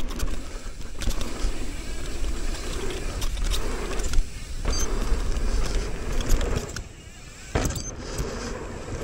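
Mountain bike riding fast down a dirt jump trail: wind rumbling on the helmet-mounted microphone over tyre noise and the bike's chain and parts rattling, with sharp knocks about four seconds in and again near the end.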